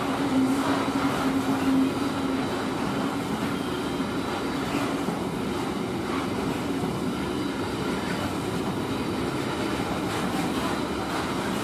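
Container freight train rolling past, its wagons' wheels running on the rails in a steady rumble and clatter. A humming tone sounds over it for the first couple of seconds, then fades.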